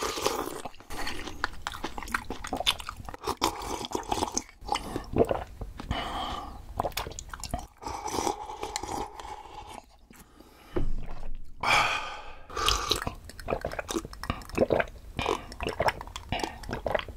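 Close-miked chewing of spicy stir-fried octopus rice and soft tofu stew, with many small wet mouth clicks. There is a brief lull about ten seconds in, then a louder, longer stretch of eating noise.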